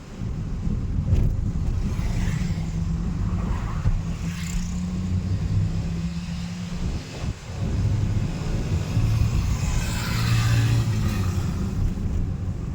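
Car driving on a road: steady low engine hum and road noise, with a swell of higher hissing noise about ten seconds in.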